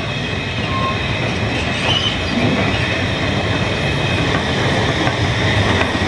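Narrow-gauge train running on the Ffestiniog Railway: a steady rolling rumble on the rails with a thin, high wheel squeal over it.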